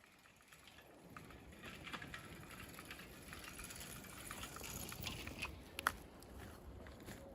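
Faint rustling and scattered small clicks of an animal moving about on the ground, with one sharper click about six seconds in.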